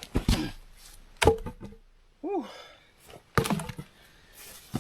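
Three loud wooden knocks as rotted dead logs are handled and knocked together: one near the start, one about a second in, and one about two seconds later. A short squeak rising then falling in pitch comes between the second and third.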